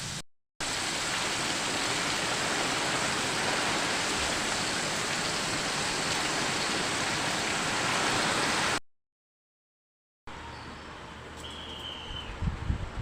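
Chicken deep-frying in hot cooking oil: a steady, loud sizzle, broken by a brief silence just after the start and a longer one about 9 s in. After that comes a quieter background with a few low knocks near the end.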